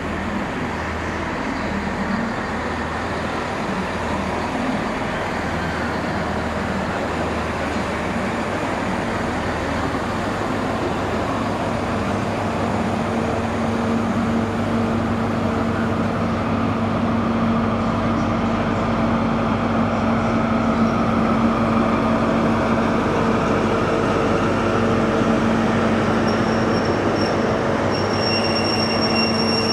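Diesel multiple unit drawing slowly into the platform, its engine hum growing steadily louder as it approaches. A high squeal, typical of brakes or wheels as the train slows, comes in near the end.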